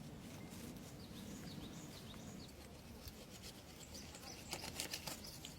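Quiet outdoor ambience with faint birds chirping in short high calls, then a cluster of rustling and clicking about four and a half seconds in.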